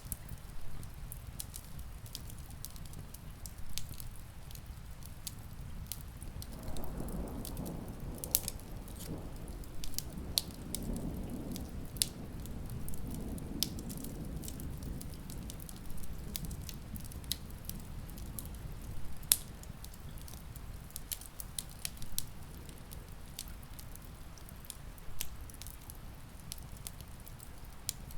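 Wood fire crackling with frequent sharp pops over a steady hiss of rain. A low rumble swells about seven seconds in and fades away by about fifteen seconds.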